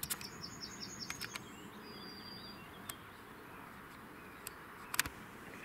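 Small songbirds calling faintly over a quiet outdoor background: a quick run of high notes in the first second or so, then a thin high whistle. A few sharp clicks cut in, the loudest about five seconds in.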